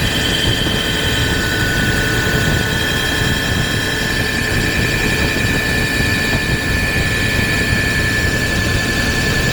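Wheel-cutting lathe machining an alloy wheel: a steady machine noise with several high whining tones that drift slowly in pitch as the cut goes on.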